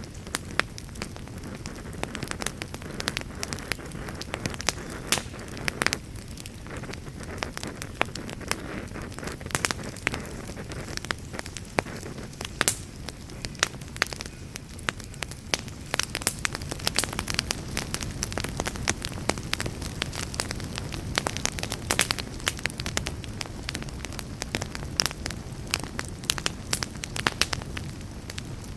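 Wood campfire crackling, with frequent sharp irregular pops and snaps over a steady low rush.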